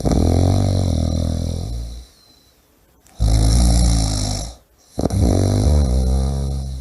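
A person snoring loudly in a regular cycle: three rough snores about two seconds apart, separated by short quiet pauses, the middle one with a breathy hiss.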